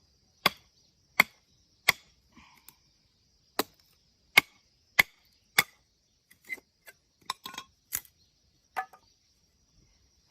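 Sharp blows of a blade chopping into firewood: seven loud strikes about two-thirds of a second apart, with a short pause after the third, then a run of lighter knocks.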